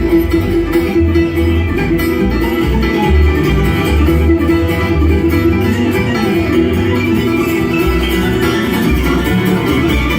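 Bluegrass band playing, with acoustic guitar and banjo picking over steady bass notes.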